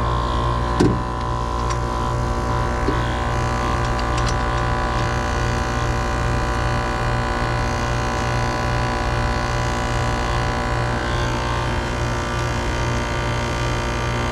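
Air-conditioning condenser unit running: a steady motor and compressor hum with a low drone that pulses evenly. A sharp click about a second in and a lighter one a couple of seconds later.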